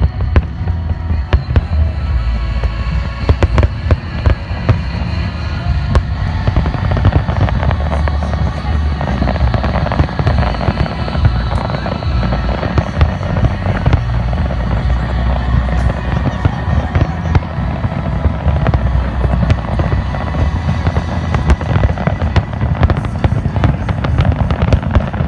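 Fireworks bursting in a rapid, continuous barrage of bangs, with music and voices underneath.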